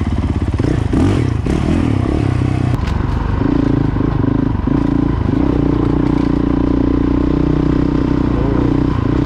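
Honda CRF450L dual-sport motorcycle's single-cylinder four-stroke engine running on a trail. The throttle varies for the first few seconds, then the engine holds a steady speed.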